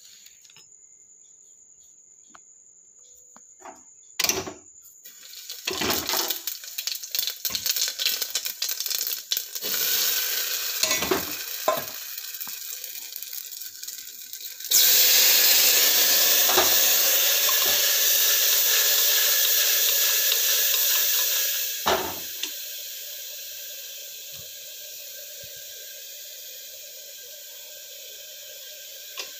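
Kitchen cooking sounds: metal utensils knocking and clinking against a pan. About halfway through, a loud steady sizzling hiss starts suddenly. After a knock some seven seconds later it drops to a quieter hiss.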